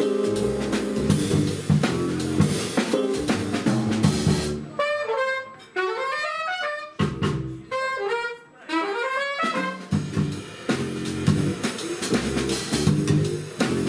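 Jazz quintet playing with drum kit. A little under five seconds in, the band drops out for an unaccompanied stretch of quick runs of single notes. The full band with drums comes back in near ten seconds.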